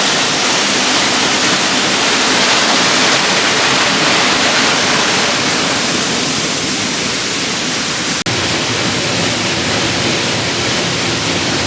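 Waterfall rushing: a loud, steady wash of falling water. It drops out for an instant about eight seconds in, then carries on.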